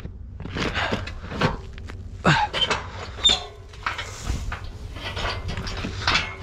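A run of irregular knocks and clunks, the strongest about two and three seconds in, over a steady low rumble and a faint steady hum from a bale-hauling truck at work.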